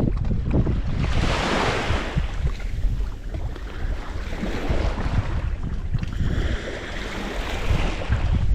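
Wind buffeting the microphone over the wash of waves, with a hissing surge of water about a second in.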